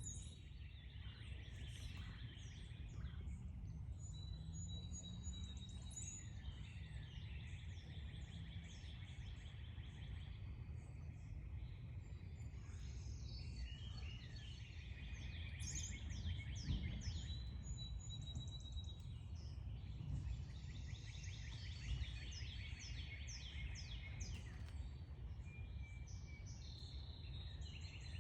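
Backyard songbirds chirping and singing, with many short calls and trills overlapping, over a steady low background rumble.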